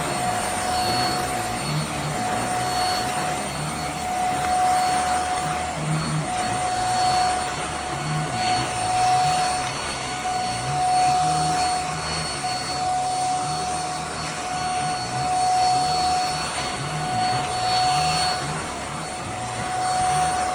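Handheld mattress vacuum cleaner running steadily: a constant high motor whine over a low hum that wavers up and down.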